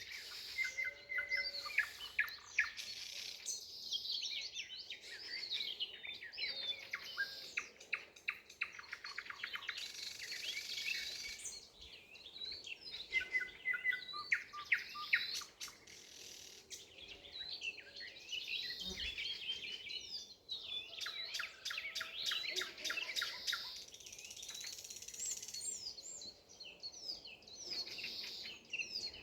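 Several songbirds singing at once: overlapping chirps, whistled phrases and fast trills, with short lulls between bursts of song.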